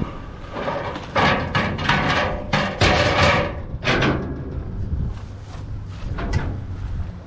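Heavy scrap being shifted about in a dumpster: a run of bangs, knocks and scrapes for about three and a half seconds, then a few softer knocks.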